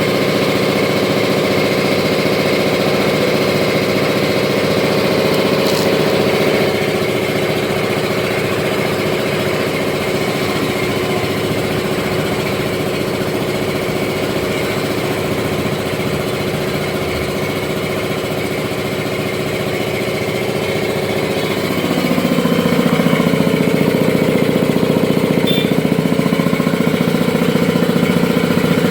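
5 hp two-stage piston air compressor running steadily with a rapid, even pulsing. About three-quarters of the way through it becomes louder and deeper.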